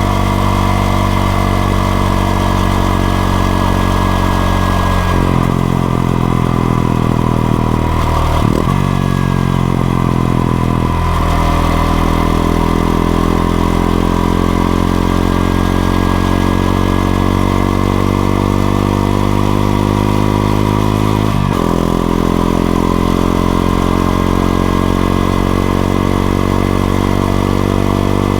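Honda XRE 190's single-cylinder engine running while the motorcycle is ridden. Its pitch changes abruptly at several gear changes, about five, eight and eleven seconds in. It then climbs slowly under acceleration and drops sharply again a little past two-thirds of the way through.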